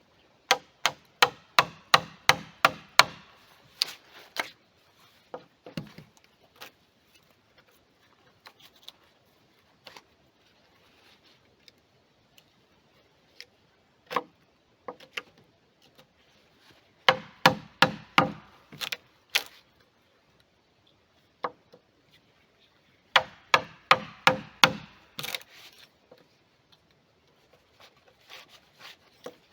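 Hammer blows on wood in three quick runs of about three strikes a second, each strike with a short ring, and a few single knocks between the runs.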